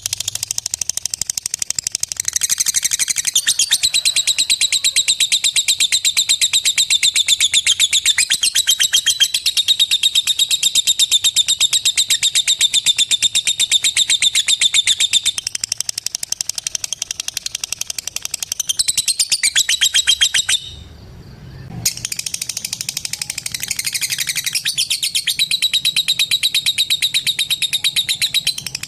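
Lovebird giving a long, fast chattering call: a rapid unbroken run of sharp high chirps. The call stops briefly about two-thirds of the way through, then resumes.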